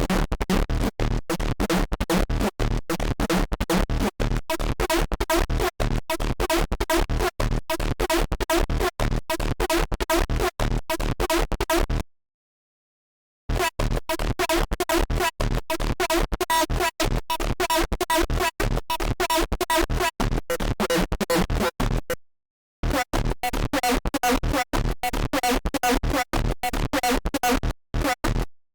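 Serum software synthesizer playing a patch built from an image-derived wavetable: a pitched, gritty tone chopped into rapid stuttering pulses, played in three long phrases with short breaks about 12 and 22 seconds in.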